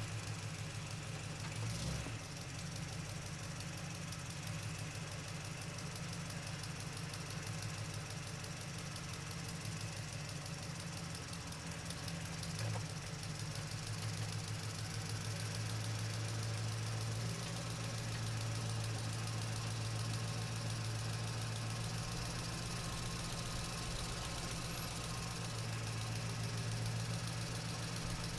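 Truck engine running steadily with a low, even throb and road noise, with a couple of brief knocks, about two seconds in and again near the middle.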